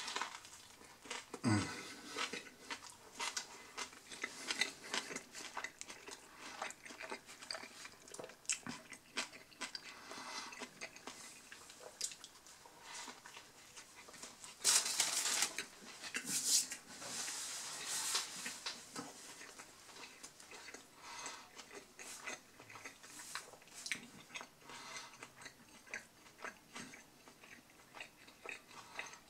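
A person chewing a bite of a Subway spicy Italian sub, quiet and close, with many small wet clicks and crunches. There are a few louder crackling rustles near the middle.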